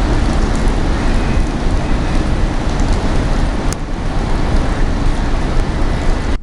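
Loud, steady rushing noise with a heavy, buffeting low rumble: wind blowing over the microphone on an open ship's deck. There is one sharp click a little past halfway.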